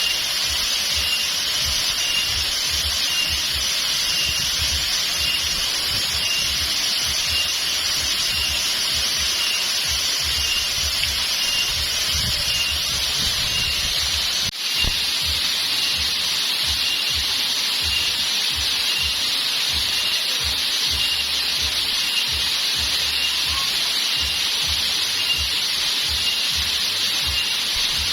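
Steady rush of water at a waterfall. A faint high chirp repeats at a steady pace throughout, and the sound dips briefly about halfway through.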